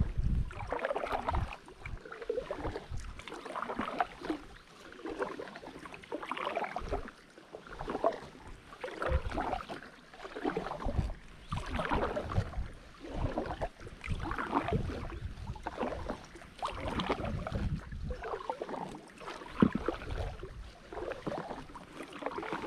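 Kayak paddle strokes splashing and dripping in the water, regular splashes about once a second.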